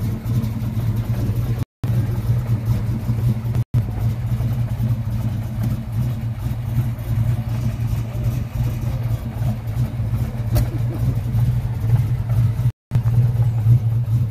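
A cammed Ford 351 V8 in a Fox-body Mustang idling steadily with a choppy, uneven pulse. The sound drops out briefly three times where the footage is cut.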